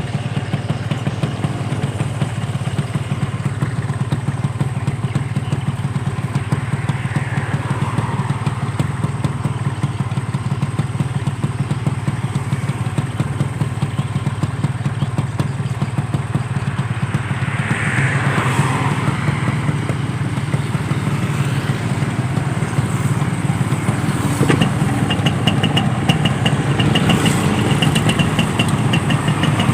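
Yamaha RX-King two-stroke motorcycle engine running steadily at low revs, with a fast ticking added in the last few seconds.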